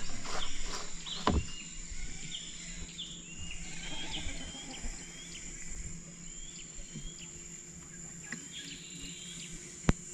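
A bird calling over and over, short hooked chirps about two a second with a brief pause near the end, over a steady high insect drone. A dull knock about a second in and a single sharp click near the end.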